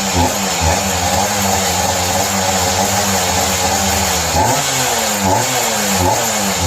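Yamaha V75 two-stroke single-cylinder engine, bored up to about 100 cc, running and being revved in repeated short blips of the throttle, its pitch rising and falling again and again.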